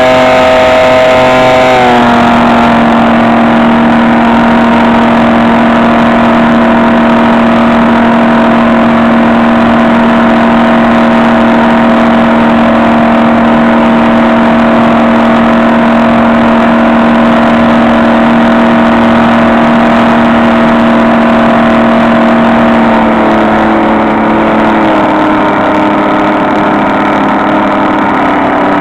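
Electric motor and propeller of a HobbyKing SkyEye model plane running steadily in flight with a loud, even whine. The pitch dips slightly about two seconds in, holds, and shifts again near the end as the throttle changes.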